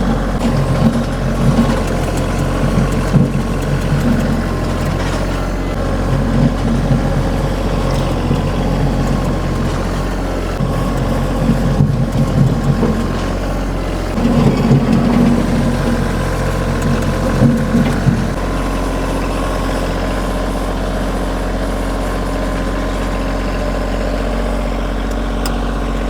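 Kioti compact tractor's diesel engine running at a steady speed, with irregular louder, rougher stretches mixed in.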